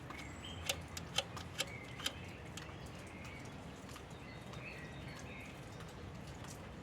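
Four sharp clicks about half a second apart, over faint bird chirps.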